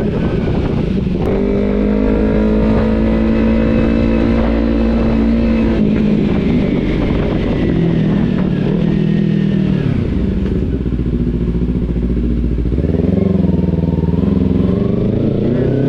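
Kawasaki Z300's parallel-twin engine running under way, its pitch holding steady, dropping about 6 and 10 seconds in, and rising again in the last few seconds as the rider works the throttle and gears.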